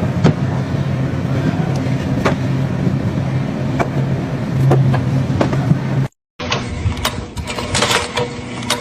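A machine motor hums steadily with scattered clicks. About six seconds in it cuts off abruptly, and a different sound with a faint steady tone and busier clicking follows.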